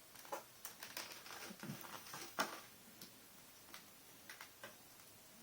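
Faint, scattered light clicks and taps, seven or so irregularly spaced, the clearest about two and a half seconds in.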